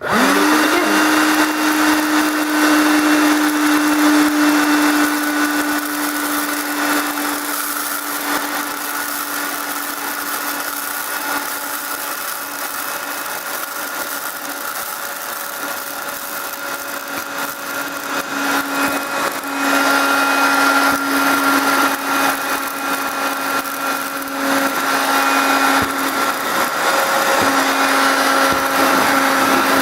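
Vax Gator 10.8-volt cordless handheld vacuum cleaner switched on, its motor spinning up quickly to a steady whine over a rush of air, running while it sucks up scattered dry rice, with many small ticks of grains rattling into it.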